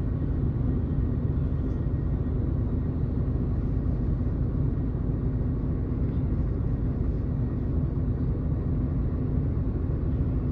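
Miyazaki Kotsu route bus running, heard from inside the passenger cabin: a steady diesel engine drone and road rumble.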